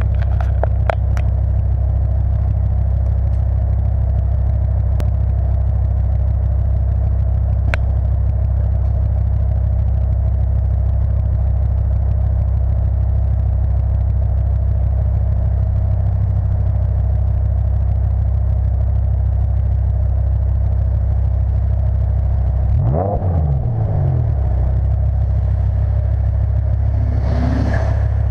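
BMW E60 M5's V10 idling steadily through a custom exhaust, with a few sharp clicks early on. Near the end the throttle is blipped twice, a quick rise and fall in revs each time.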